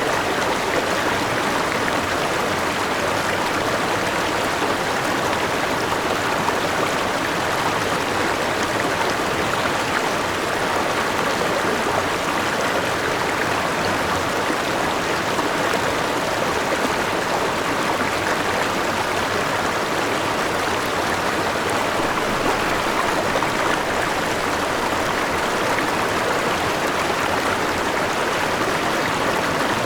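A forest river with a small waterfall rushing and splashing over rocks, a steady full-bodied flow with no let-up.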